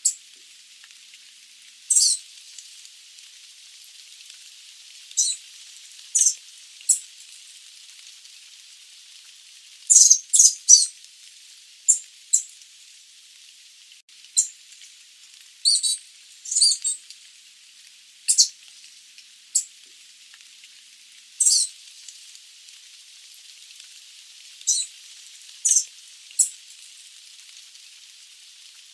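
Sooty babbler (Stachyris herberti) giving short, high-pitched calls at irregular intervals, some in quick runs of two or three, over a faint steady hiss.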